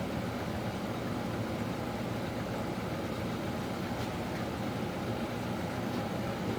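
A steady, unbroken mechanical drone with a low hum, like a running motor or machine.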